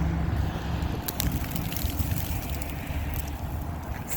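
Low steady rumble of a vehicle engine, with wind noise on the microphone and a few faint crackles about a second in and again near the end.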